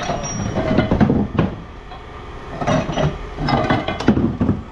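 Pieces of scrap metal being dropped and tossed into a metal bin, clanking irregularly with several sharp strikes and brief ringing.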